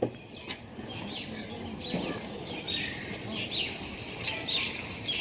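Birds chirping, many short downward-sweeping chirps in quick succession. There is a sharp knock right at the start and a fainter one just after.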